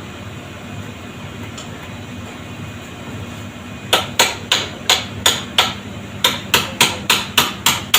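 Hammer blows on metal in quick succession, about three a second: a run of six starting about four seconds in, a brief pause, then seven more. These are hammer blows on an old car generator to free a stubborn pulley nut.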